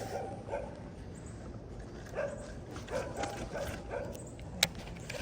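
A dog barking in short runs of repeated barks, a couple of seconds in and again around three seconds in. A single sharp click comes about four and a half seconds in.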